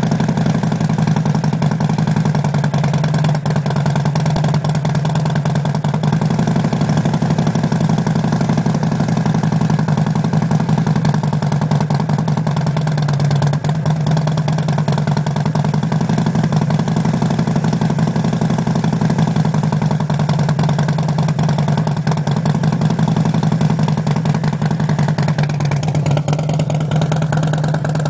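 Harley-Davidson V-twin motorcycle engine idling steadily through a Drago Bike Works 2-into-1 exhaust.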